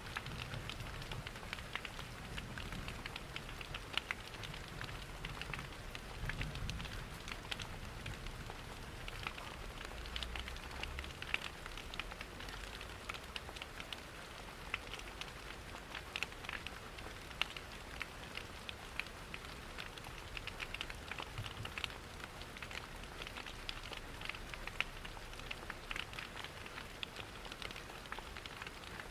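Steady rain pattering, mixed with a wood fire in a fireplace crackling and popping in many short sharp snaps. A low rumble underlies the first dozen seconds or so.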